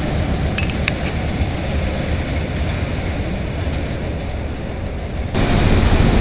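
Elevated CTA Red Line train pulling away, its rumble with a few sharp clicks of wheels over the track about a second in. About five seconds in the sound cuts abruptly to a louder, closer train running past.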